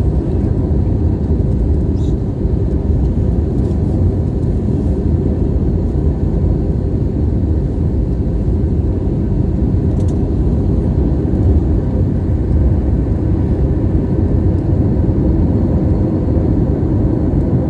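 Steady low rumble of an airliner in flight, engine and airflow noise heard from inside the passenger cabin.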